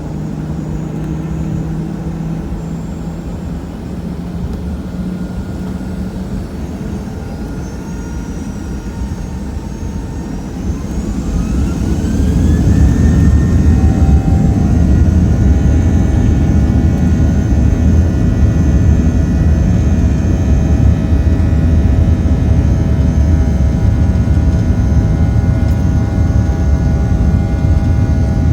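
Boeing 737-800's CFM56-7B jet engines spooling up for takeoff. A rising whine climbs from about seven seconds in, then the engines run loud and steady at takeoff thrust.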